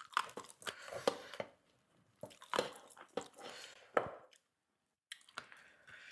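Close-miked eating: chewing, biting and crunching food in a run of sharp crunches and wet, squishy mouth noises, which pause briefly a little before the end and then resume.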